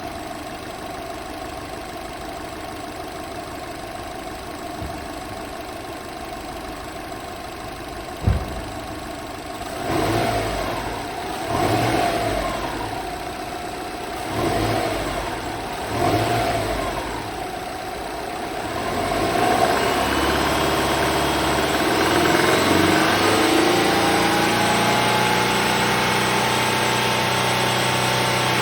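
Subaru Legacy BP5's EJ20 turbocharged flat-four engine idling steadily, then blipped four times and held at raised revs for the last nine seconds or so, with a single sharp click about eight seconds in. The owner hears a rattling (karakara) from the engine bay when revving to around 3500 rpm, absent at start-up, of still-unknown cause.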